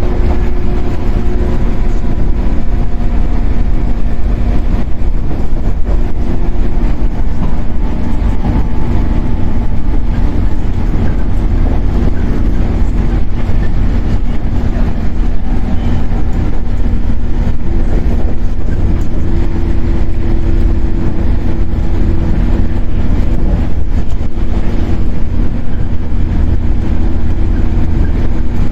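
Shinano Railway 115 series electric train running at a steady speed, heard from inside the motored car KuMoHa 115-1013: a loud, steady deep rumble of wheels and running gear with a steady traction-motor hum over it.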